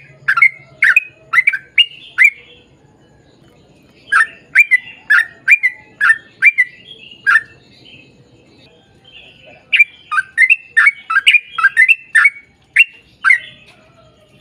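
Yellow-vented bulbul (trucukan) singing in three runs of quick, sharp, chirping notes, each run lasting about two to four seconds, with short pauses between them.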